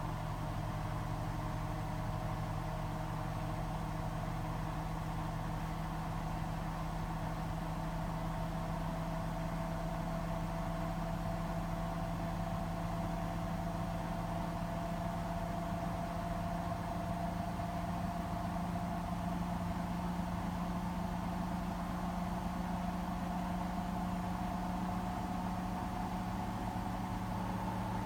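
Hotpoint WMFUG 942 washing machine spinning with a steady motor hum and whine. The whine creeps slowly up in pitch as the drum gathers speed.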